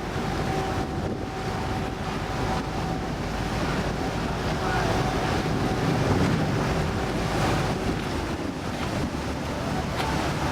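Motorboat under way: water rushing past the hull and wind buffeting the microphone, over a faint steady engine hum that drops away about eight seconds in.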